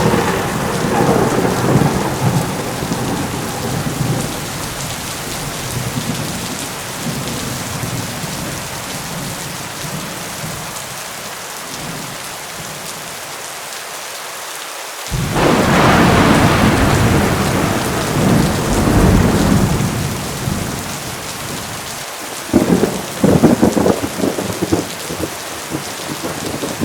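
Heavy rain falling steadily with thunder: a roll of thunder fading just after the start, a loud clap that rumbles on for about five seconds from about fifteen seconds in, and a shorter crackling peal near the end.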